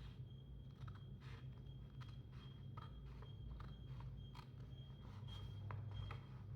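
Faint, irregular crinkles and clicks of paper being worked by hand, cut and folded.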